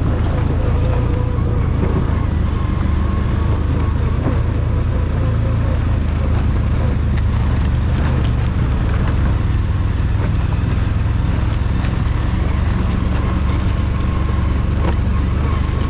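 ATV engine running steadily at a constant pitch, with no change in speed.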